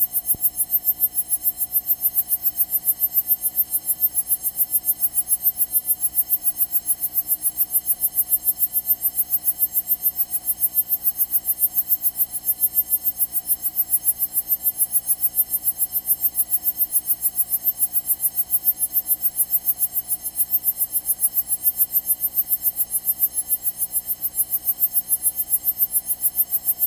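Rapid, steady ticking pulse, about five clicks a second, even and unchanging throughout.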